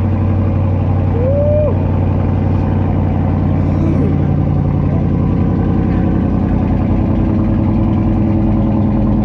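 Dodge Charger R/T's 5.7-litre Hemi V8 with its mid-mufflers deleted, running at a steady fast idle on a cold start. A short chirp rises and falls about a second in.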